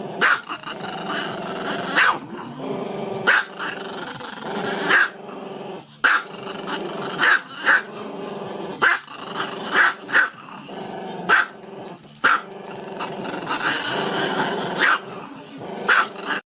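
A dog growling steadily, breaking into short, sharp barks again and again.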